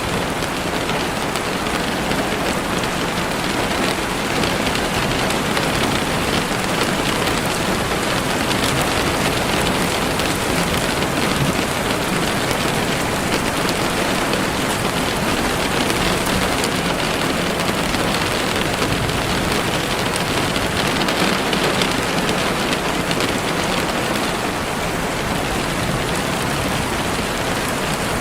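Heavy rain falling steadily on leaves and the forest floor, a dense unbroken hiss of raindrops.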